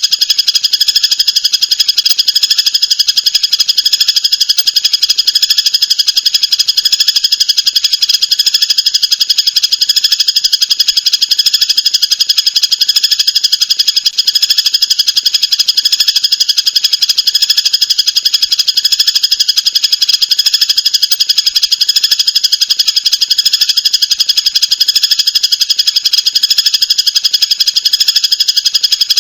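Recorded songbird song played as a masteran loop: a dense, continuous high-pitched trill of very rapid repeated notes that never pauses.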